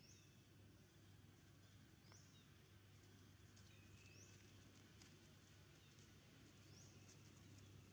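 Near silence: faint outdoor ambience with a low steady hum, and a bird's short high chirp, rising in pitch, repeating about every two seconds.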